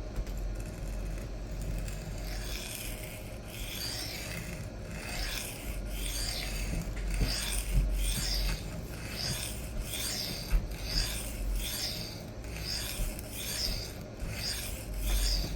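D2 steel knife blade stroked freehand across a coarse 200-grit diamond sharpening plate, each pass a rasping scrape. Softer at first, then regular strokes, about three every two seconds, from a couple of seconds in.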